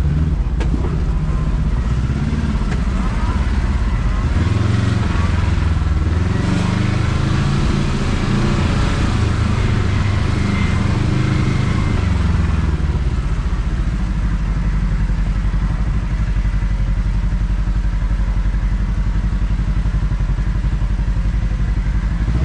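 Kawasaki KRX side-by-side's parallel-twin engine running low and steady while crawling over rough, tippy trail, with extra rattle and clatter from the ground and chassis for several seconds in the middle.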